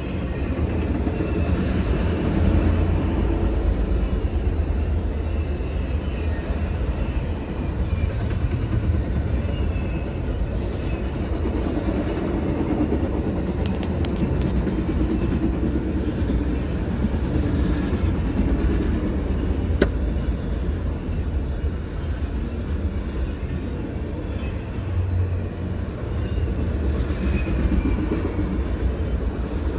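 CSX freight train of autorack cars rolling past close by: a steady rumble of steel wheels on the rails, with one sharp click about two-thirds of the way through.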